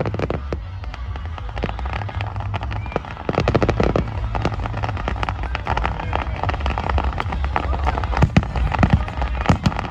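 Fireworks display: a dense run of rapid crackling pops over a low rumble, growing louder about three seconds in, with a few sharper bangs near the end.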